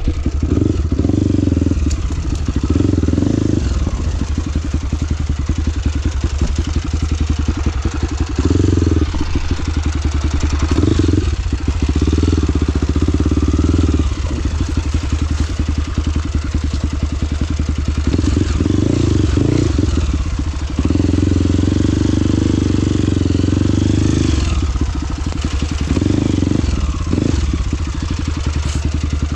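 Trail motorcycle engine running as it is ridden, the throttle opening and closing every few seconds.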